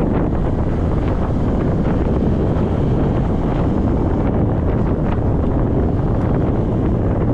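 Steady, loud wind buffeting on a GoPro microphone on a moving motorcycle, with the motorcycle's engine running underneath.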